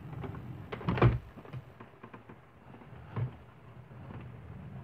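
Light rain at night with a low steady rumble, broken by a few sharp taps: a cluster about a second in, the loudest, and another a little after three seconds.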